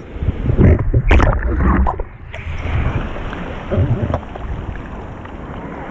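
Wind buffeting the microphone over the steady wash of sea surf, with a few sharp knocks in the first two seconds.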